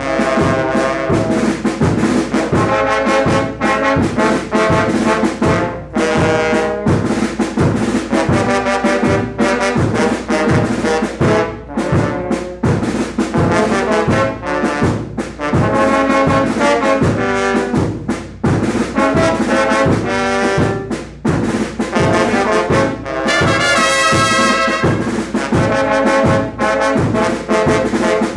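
Mexican banda (brass band) playing: trombones and trumpets carry the tune over a steady, driving bass beat.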